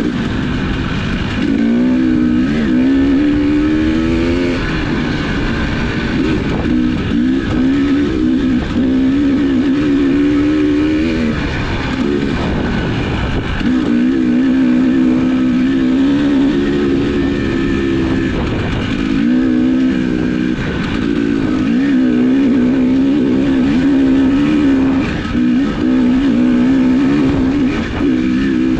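Engine of an off-road vehicle running under way, its pitch rising and falling with the throttle, with wind rumbling on the microphone.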